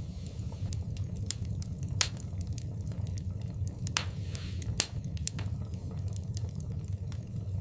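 Wood fire burning in a fireplace: irregular sharp crackles and pops, a couple of them louder, over a steady low rumble, with a brief hiss about four seconds in.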